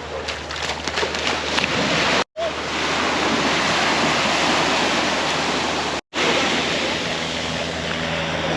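Surf washing onto the beach with wind on the microphone: a steady rush of noise that drops out for an instant twice.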